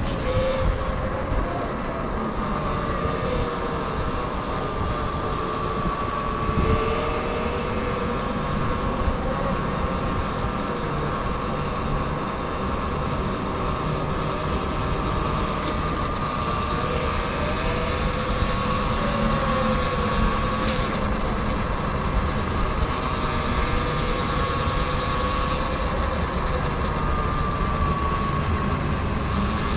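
Electric motor whine of a Sur Ron electric dirt bike while riding, its pitch rising and falling gently with speed, over a steady low rumble.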